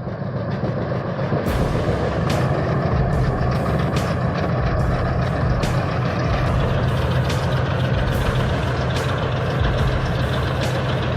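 A heavy diesel engine running steadily at a constant speed, with sharp clicks or knocks about once a second.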